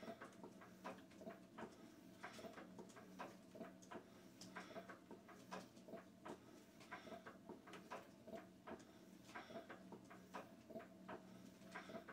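Faint, irregular small clicks and ticks, a few a second, over a low steady hum, as the old Witte diesel is worked over by hand while priming its fuel line.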